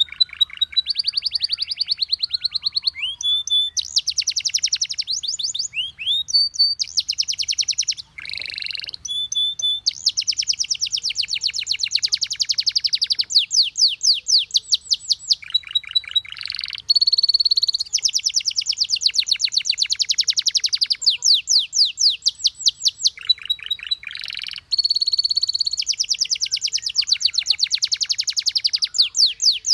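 Domestic canary singing a long, continuous song of fast trills and rolls, broken by short whistled up- and down-sweeping notes and brief pauses.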